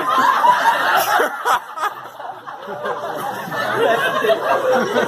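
People chuckling and laughing amid indistinct talk.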